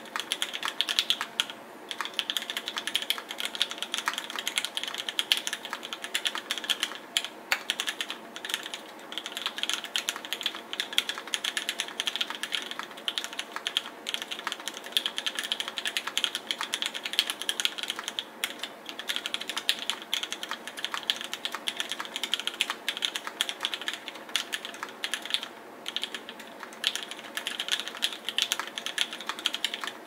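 Rapid, continuous typing on a CannonKeys Savage65 mechanical keyboard built with Gateron Black Ink V2 linear switches lubed with Krytox 205 G0, Durrock V1 stabilizers and GMK Cafe keycaps: a dense stream of keystroke clacks with only the odd brief pause.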